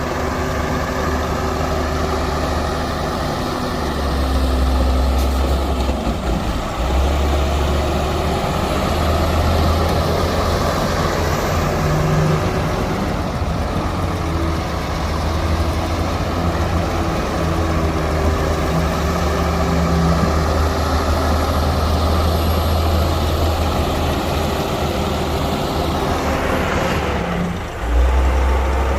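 Diesel engines of heavy earthmoving machinery, a bulldozer and dump trucks, running under load, a steady heavy rumble that swells a few seconds in, with a brief break and a hiss near the end.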